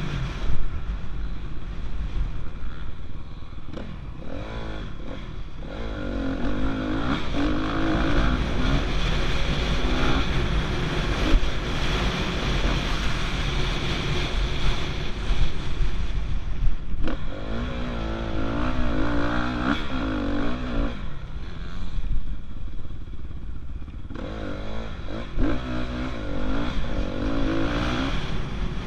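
Dirt bike engine being ridden hard, revving up and dropping back in waves three times, over a constant low rumble.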